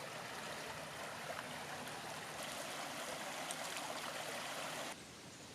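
Running water, a steady rushing like a stream, that cuts off abruptly about five seconds in.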